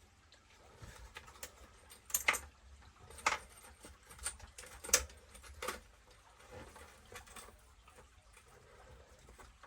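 Scattered light clicks and taps of small parts and tools being handled, as the differential is fitted back into the RC truck's gearbox; four or five sharper knocks stand out over the few seconds.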